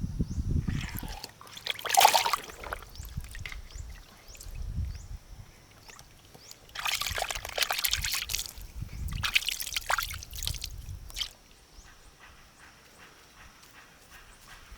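Water splashing and sloshing in three bursts, with dull low thuds between them, then going quieter near the end.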